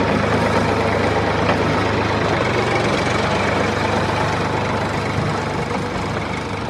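Toy JCB tractor running with a steady engine-like drone, easing off slightly near the end.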